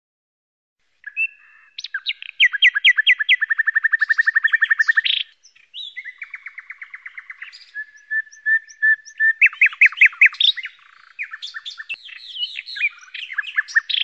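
Songbird singing: phrases of fast trills of rapidly repeated notes mixed with short sweeping chirps, separated by brief pauses, starting about a second in.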